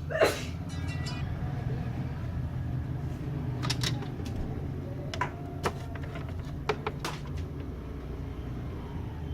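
Scattered sharp clicks and light knocks of hand tools and plastic parts being handled while the power lead of a mixer grinder is replaced, over a steady low hum.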